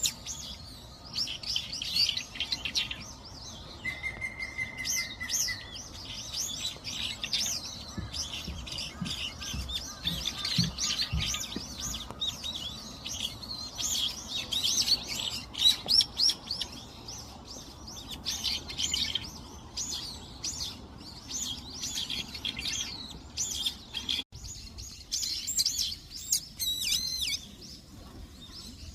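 Many small songbirds chirping and calling over one another in quick, high, overlapping notes. About four seconds in, one bird gives an even, level trill lasting about two seconds.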